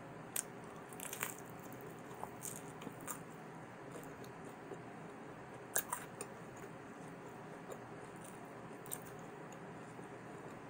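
Close-up mouth sounds of a person chewing pepperoni pan pizza: soft, wet chewing with scattered small clicks, the sharpest a little past halfway.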